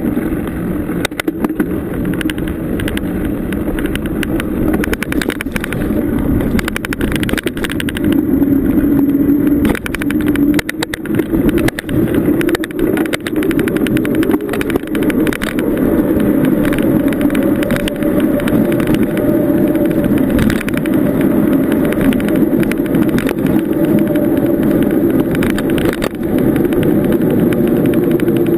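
Bicycle being ridden, recorded from the bike: a loud, steady rumble of tyres and wind on the microphone, with many sharp rattles and clicks as the bike goes over bumps.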